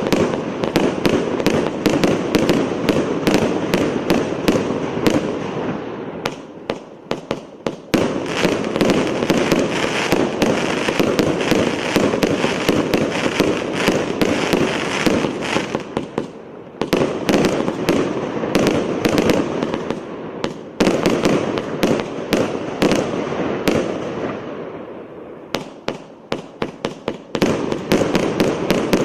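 Multi-shot fireworks cake firing rapid volleys of shots, with bursts and crackling effects overhead. The barrage eases briefly three times, then picks up again with fast strings of bangs.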